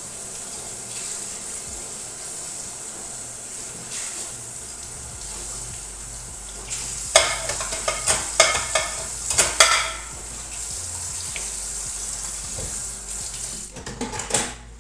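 Kitchen dishes and pots clattering against each other in a quick run of knocks about halfway through and again briefly near the end, over a steady hiss.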